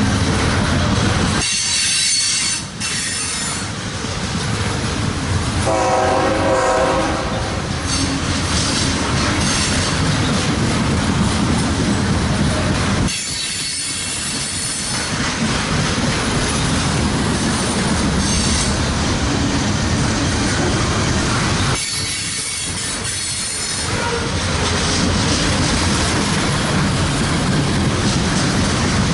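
A train passing close by, its wheels running loudly on the rails. There is one horn blast about six seconds in, and high-pitched wheel squeal three times along the way.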